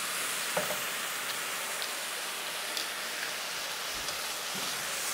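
Chicken and vegetables sizzling in a wok over a gas flame: a steady frying hiss with a few small pops.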